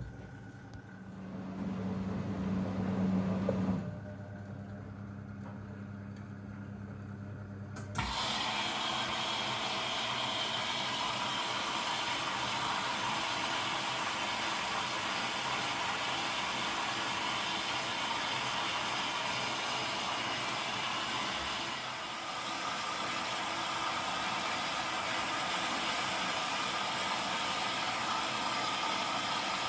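Zanussi DL22 washing machine running a 90 °C boil wash: a low motor hum swells for a few seconds, then about eight seconds in a sudden, steady rushing noise starts and carries on.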